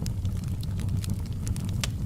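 Fire crackling in a fireplace: a steady low rumble with scattered sharp pops and crackles.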